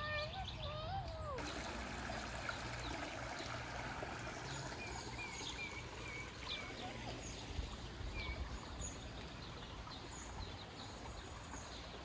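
Small birds chirping over a steady hiss of outdoor background noise: a quick run of about five chirps near the middle and a few scattered single calls.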